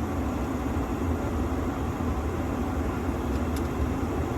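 Steady running noise of a gas-electric package unit firing on heat: the combustion inducer and burners are running while the indoor blower stays off, the fault traced to its fan relay. A faint tick comes a little over three seconds in.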